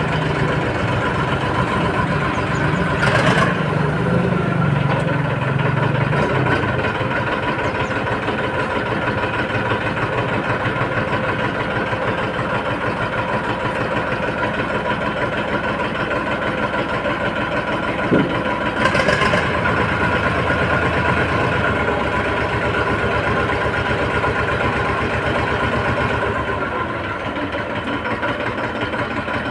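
Eicher 380 tractor's diesel engine running steadily while its hydraulic lift is worked through the freshly repaired distributor valve, which is working properly. A brief click or knock comes about three seconds in and again about nineteen seconds in, and the engine eases off slightly near the end.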